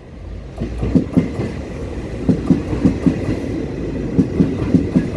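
Taiwan Railways EMU800-series electric commuter train rolling past close by, its wheels clacking over the rail joints in quick pairs as each bogie crosses, over a steady rumble. The clacks start about a second in.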